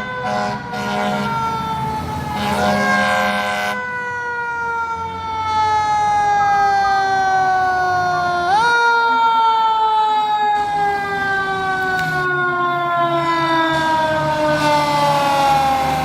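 Federal Q2B mechanical siren on a fire engine wailing: it winds up quickly three times, near the start, about three seconds in and about halfway through, and each time slowly coasts down in a long falling wail. Steady air-horn blasts sound under it in the first few seconds.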